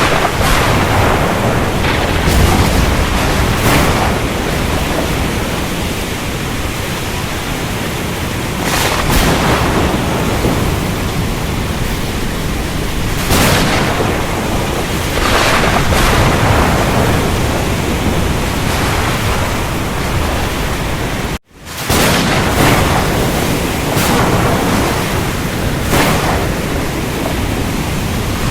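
Ocean storm: a steady rush of surf with waves breaking every few seconds under low rumbling thunder. The sound cuts out for a split second about three-quarters of the way through, then comes straight back.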